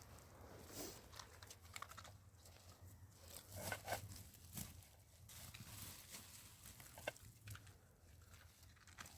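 Faint crinkling and rustling with scattered small clicks and knocks, like a sheet of plastic or tarp being handled.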